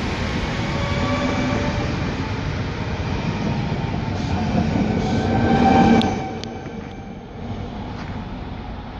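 Alstom Régiolis train pulling out of the station and passing close by, a motor whine rising in pitch as it gathers speed over the rumble of wheels on rail. It is loudest about six seconds in, then fades as the train draws away.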